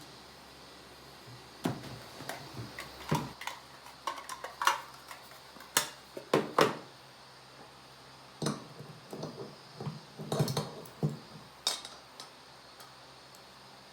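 Small containers and utensils being handled, making irregular clinks and knocks with short rings. The sounds start nearly two seconds in and stop about two seconds before the end.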